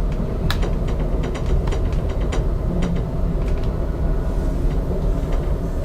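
Moving passenger train heard from inside the car: a steady low rumble with many irregular clicks and rattles.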